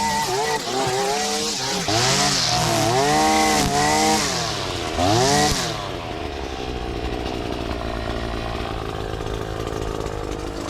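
Small two-stroke petrol garden tool, most likely a line trimmer, revved up and down several times, then settling to a steadier, lower running about six seconds in.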